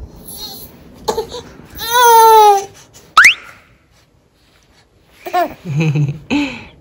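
A four-month-old baby's vocal sounds: a loud, long, wavering squeal about two seconds in, a quick rising squeak right after it, and babbling near the end.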